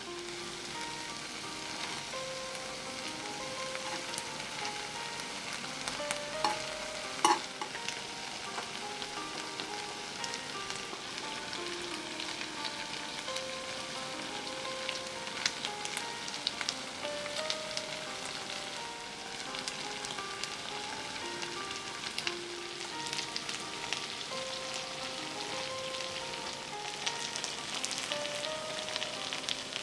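Spicy stir-fried chicken feet sizzling and crackling steadily in a hot cast-iron skillet, with two sharp clicks about seven seconds in. A soft background melody plays along.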